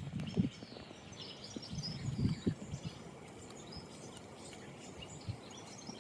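Several small songbirds chirping and singing in short scattered phrases, over a low outdoor background, with a few soft low thuds.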